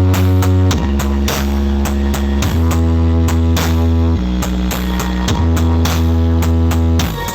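Bass-heavy electronic drop music played loud through a large sound system of 24 Blizzard subwoofers. Long, deep held bass notes change pitch every second or two, broken by sharp percussive hits.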